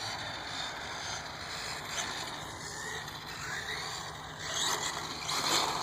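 Electric 1/10-scale RC car driving, a faint whine from its motor and gears over steady background noise. The whine rises and grows louder over the last second or so.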